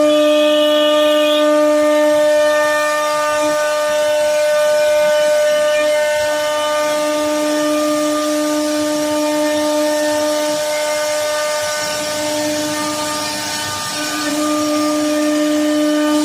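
CNC router spindle running at high speed, a steady whine carving wood, with slight dips in strength as the cutting load changes.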